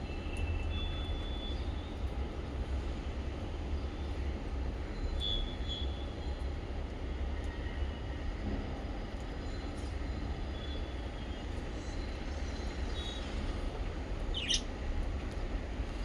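Small birds chirping sparsely with short high chirps, and one sharper sweeping call near the end, over a steady low rumble.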